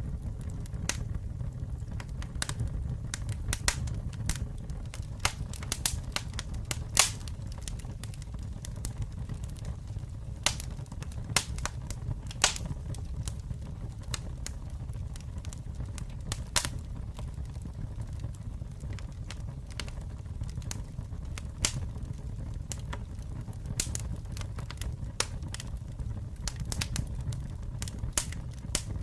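Campfire burning with a steady low rumble and irregular sharp crackles and pops of burning wood, the loudest pop about seven seconds in.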